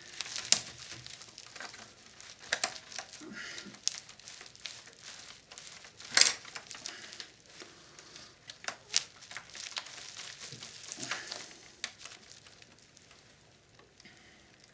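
Plastic knob and casing of a vintage Philips radio cassette recorder being wiggled and pried at by hand: irregular clicks, scrapes and rattles of plastic parts. The loudest click comes about six seconds in, and it grows quieter near the end.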